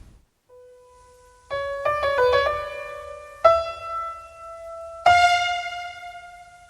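Slow piano music: a soft single note, a quick flurry of notes, then two single notes struck and left to ring out and fade.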